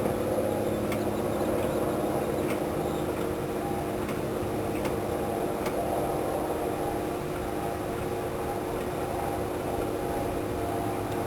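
The fifth-wheel's front landing gear runs steadily under its motor with a constant mechanical hum, driving the jackscrew legs as the freshly greased gear is tested. A few faint clicks sound over the hum.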